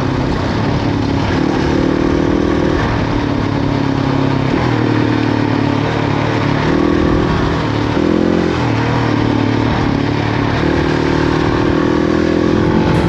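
Motorcycle engine running while riding, its pitch stepping up and down several times with throttle and gear changes, over a steady rushing noise.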